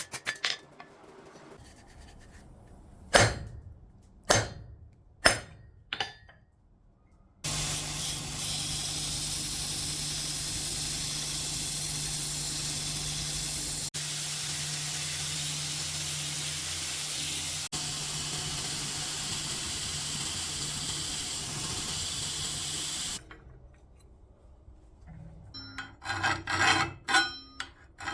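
A few sharp knocks, then an electric machine in the forge workshop runs steadily with a low hum and hiss for about fifteen seconds and cuts off. Near the end come quick rasping strokes of a file on steel.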